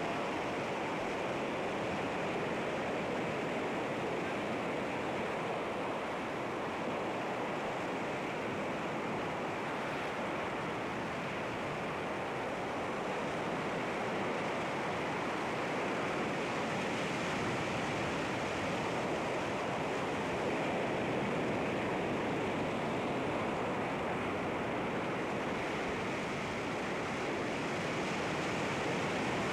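Sea waves washing against rocks: a steady rush of surf that swells and eases slightly, with no single breaking crash standing out.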